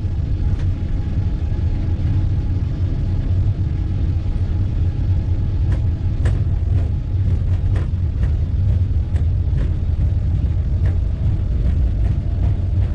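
Aircraft engines and airframe rumbling steadily inside the cockpit during takeoff, with a few light rattles or ticks.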